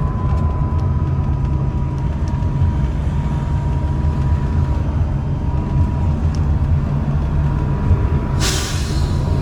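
MAZ-203T trolleybus heard from inside the cabin while running: a steady low rumble with a thin, steady high whine from the traction drive. Near the end there is a short hiss of compressed air.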